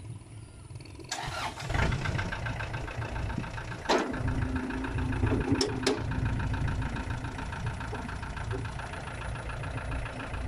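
Diesel engine of a four-wheel farm tractor starting about a second in, then running steadily. A few sharp clicks come around four and six seconds in.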